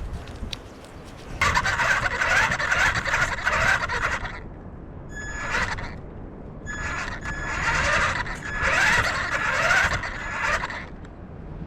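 Small motorised toy robot running in three bursts, a harsh whirring noise with a thin steady whine in it; the longest burst lasts about four seconds.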